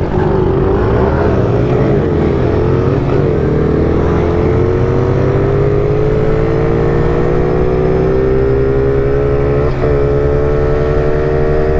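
Small mini-quad engine pulling hard at full throttle in a short race. Its pitch climbs steadily, with brief dips about three seconds in and again near the end.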